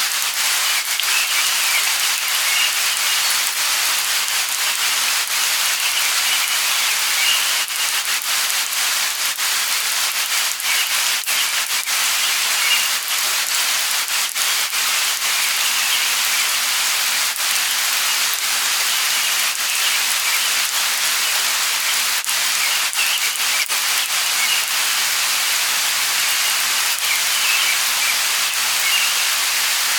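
Steady light rain, an even hiss of falling drops with scattered drop ticks.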